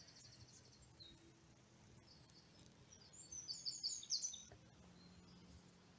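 Faint birdsong: a short run of quick high chirps at the start, then a louder burst of short, sharp high notes about three to four seconds in.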